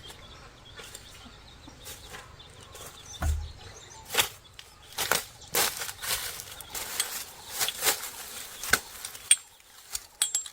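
A series of irregular sharp knocks and clinks, a dozen or so, with a dull thump about three seconds in.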